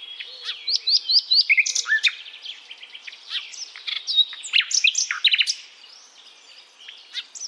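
A songbird singing a rapid, varied run of high chirps and whistled notes, many of them quick upward sweeps, thinning out and growing quieter about six seconds in.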